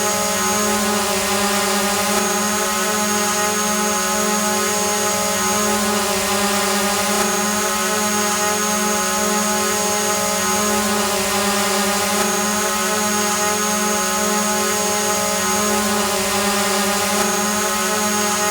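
A hovering drone's motors and propellers whirring steadily: an even buzzing hum with a thin high whine above it.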